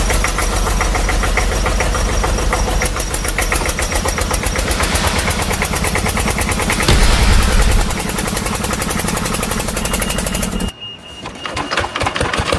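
Vehicle engine sound effect running with a fast, even pulse. A heavier, deeper stretch comes about seven seconds in, and the sound drops away briefly near the end.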